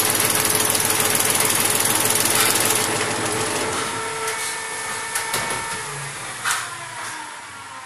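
Mahindra tractor's diesel engine running after its fuel pump repair, then cutting out about three seconds in and dying away, followed by a few scattered clicks and knocks.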